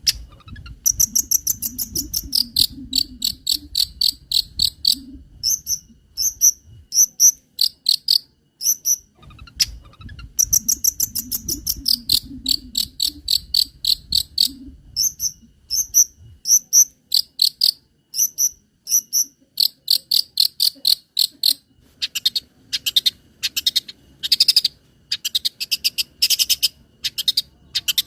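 Long-tailed shrike (cendet) singing rapid trains of short, sharp, high chirps, evenly repeated about three to four a second, with brief breaks, in an insect-like imitation typical of its mimicked song material.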